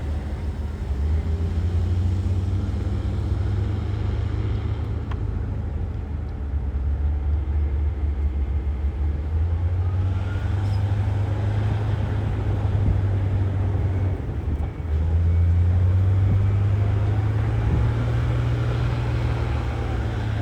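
Heavy diesel earthmoving machinery running under varying load, its deep engine note shifting in pitch. It dips briefly about fifteen seconds in, then comes back louder. A couple of short knocks sound over it.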